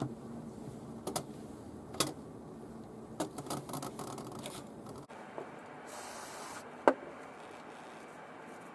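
A string of light clicks and taps, with a short hiss about six seconds in and one sharper click just after it.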